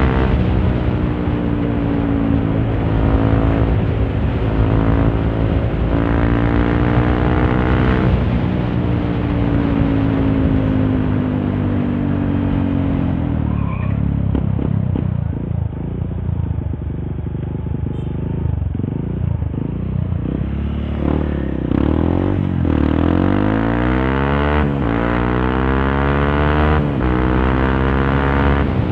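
Honda CRF150L's single-cylinder four-stroke engine through a Norifumi Torc aftermarket exhaust, under way: the revs rise and fall through the gears, easing off to a low, slower-running note around the middle, then climbing again near the end. Heard from a mic inside the rider's helmet.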